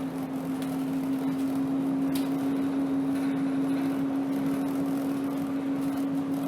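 Alexander Dennis Enviro 200 single-deck bus driving, heard from the driver's cab: a steady drone at one constant pitch from the drivetrain over road noise.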